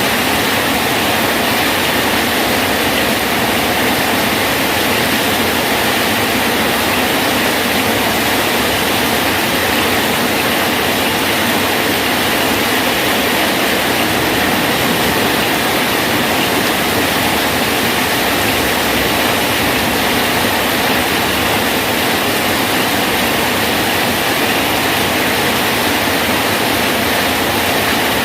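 Steady rain falling on a bridge, an even, unbroken hiss with no separate drops standing out.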